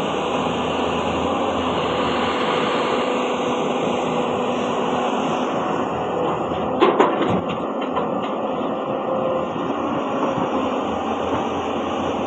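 Heavy diesel machinery running steadily while trucks are loaded with riverbed sand. About seven seconds in comes a short run of sharp clanks and knocks.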